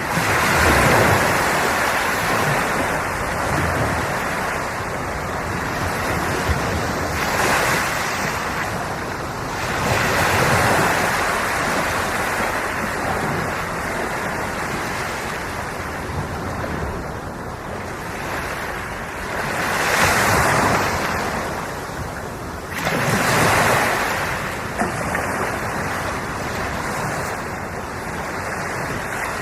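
Sea waves breaking and washing onto the shore in repeated surges a few seconds apart, with a steady hiss of surf between them.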